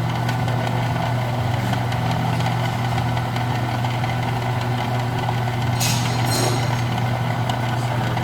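Electric drill press motor running steadily with a low hum, with a short higher hiss about six seconds in.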